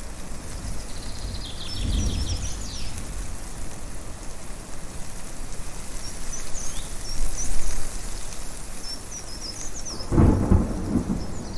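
Thunder rumbling over a steady rushing storm noise: a low roll about two seconds in and a stronger one near the end. Birds chirp now and then above it.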